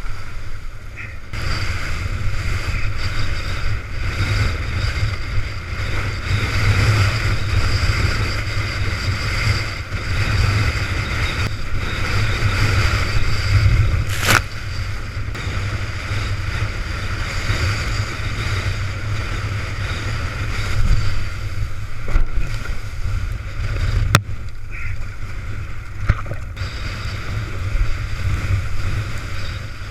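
Storm wind buffeting the microphone in a loud, constant low rumble, over rushing water and spray as a windsurf board sails through rough sea. A sharp knock comes about 14 seconds in and another about 24 seconds in.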